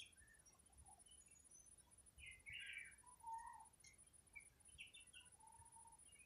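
Faint, scattered bird chirps and short calls, with a louder cluster about two to three and a half seconds in.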